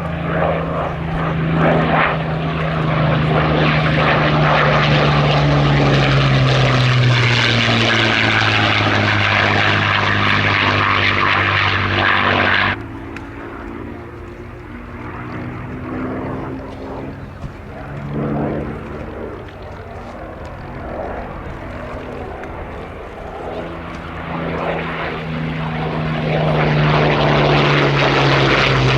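Rolls-Royce Merlin V12 engine of a WWII propeller fighter flying past, its engine note falling in pitch as it goes by. About halfway through the loud sound drops off suddenly to a fainter, more distant engine sound, which swells again near the end as another pass comes in.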